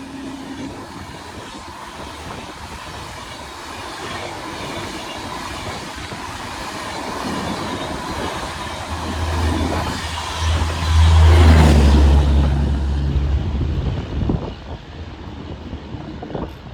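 A fast train running through the station without stopping: wheels on rail, growing louder and peaking with a low steady drone about eleven seconds in as the locomotive and coaches pass, then quickly fading.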